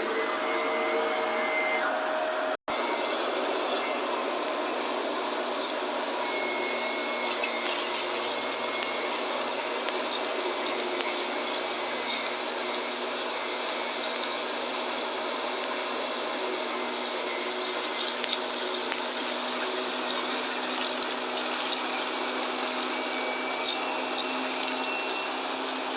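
Shark vacuum cleaner running steadily, with crunching and crackling sizzle as it sucks up crunchy debris; the crackles come thickest around the middle and toward the end. The sound cuts out for an instant about two and a half seconds in.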